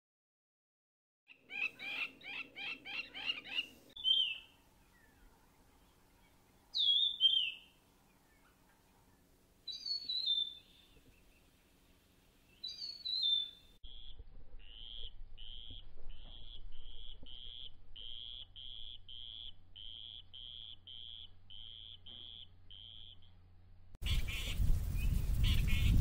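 Birds calling. A burst of rapid falling chattering notes is followed by four clear downslurred whistles a few seconds apart, then a steady run of short, evenly repeated high notes at about two a second. Near the end a sudden louder rush of noise comes in.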